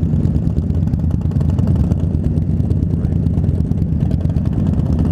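Motorcycle engines running steadily at cruising speed, a group ride led by an Indian Scout Bobber's V-twin, with a constant low rumble and wind rushing over the helmet microphone.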